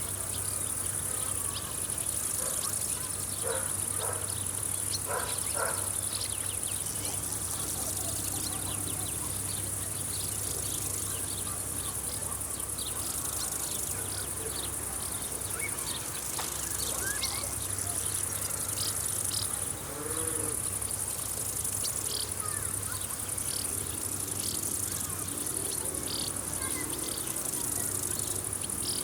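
A continuous, high-pitched chorus of field insects, chirring steadily with a slight pulse. Scattered short bird chirps come through it, over a faint low steady hum.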